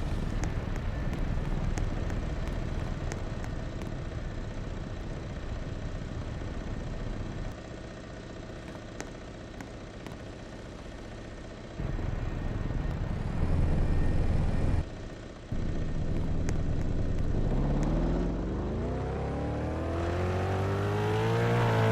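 Motor vehicle running with road and wind noise, then its engine revving up, rising steadily in pitch over the last few seconds.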